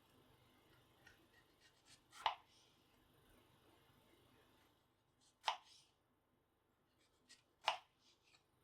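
Three light, sharp knocks a few seconds apart, with small handling clicks between them.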